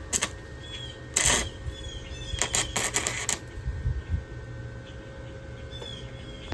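Arc welder crackling in short bursts as a nut is welded onto a broken exhaust manifold bolt stub. There is a brief burst at the start, another about a second in, and a longer run of crackle from about two and a half seconds in.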